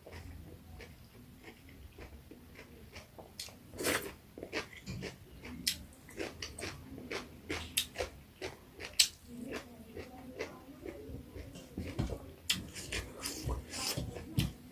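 Close-miked eating of pork curry: wet chewing and lip-smacking with many short, irregular clicks, the loudest about nine seconds in.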